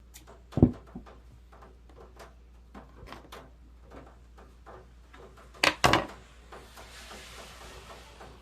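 Scissors cutting fabric, a string of irregular clicks from the blades, with two loud knocks about half a second in and near six seconds. A soft rustling hiss follows near the end as the cloth is handled.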